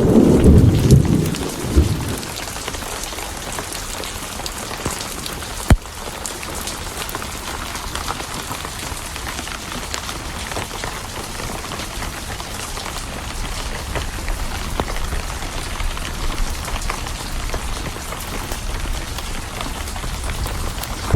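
Steady rain hiss, with a rumble of thunder dying away over the first two seconds and another rumble breaking in at the very end. Scattered small clicks and one sharp crack about six seconds in sit over the rain.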